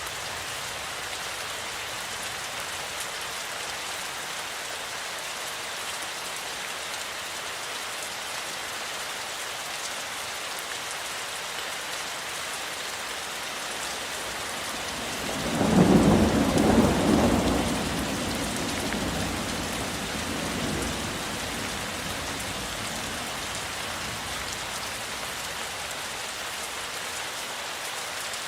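Steady rain falling, with one peal of thunder about halfway through: a low rumble that builds quickly, peaks for a second or two and rolls away over several seconds.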